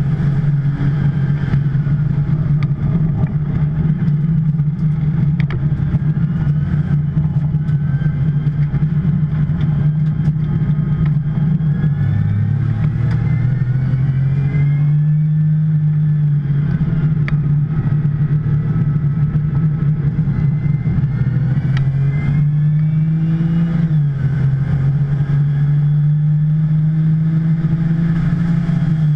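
2010 Porsche 911 Turbo's twin-turbo flat-six running at steady, moderate revs. The engine note drops about twelve seconds in, climbs back a few seconds later, and drops again near the end. The turbo boost has been lost, and the car is being driven gently to the finish.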